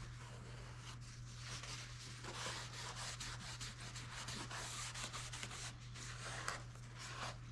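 Repeated rubbing and wiping strokes on the foam RC wing's surface as excess wood glue is worked off, a quick scratchy stroke after stroke starting about a second in.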